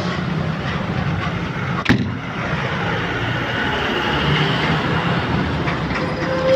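Steady vehicle noise, with one sharp knock about two seconds in.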